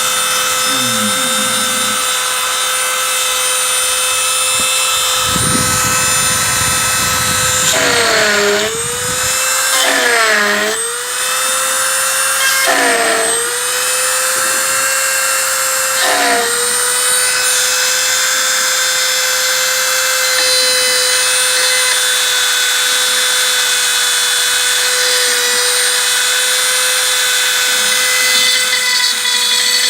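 Homemade CNC router's spindle whining steadily as the end mill cuts 3 mm aluminium plate dry, without coolant. Its pitch dips briefly four times in the middle, then holds steady.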